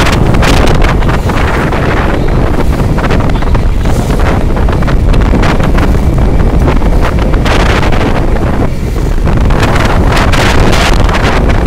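Strong storm wind buffeting the microphone: a loud, gusting rumble that rises and falls, with a brief dip about eight to nine seconds in.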